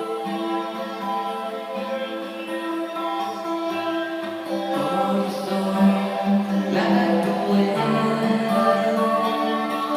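Music: a song sung in long, sustained notes, the pitch changing about halfway through and again near the end.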